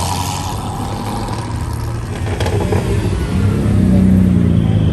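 A car engine rumbling low as it rolls past, then revving up about three seconds in, its note rising and growing louder.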